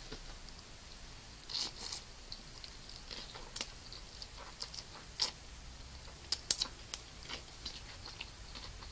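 Close-miked chewing of a mouthful of chow mein noodles, broken by scattered sharp clicks, the loudest about six and a half seconds in.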